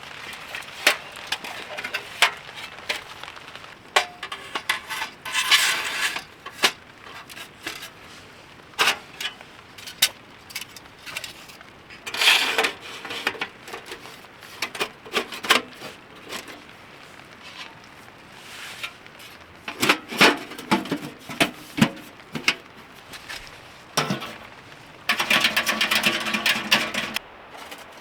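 Cookware and utensils clinking and knocking in a long run of sharp, irregular taps, with a longer stretch of clatter about a second before the end.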